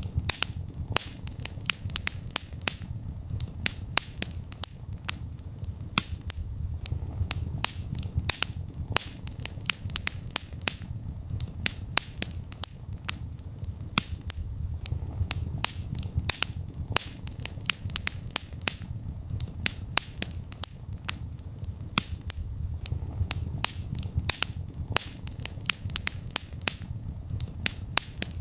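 Wood fire crackling in a fireplace: frequent sharp pops and snaps at irregular intervals over a low, steady rumble of the flames.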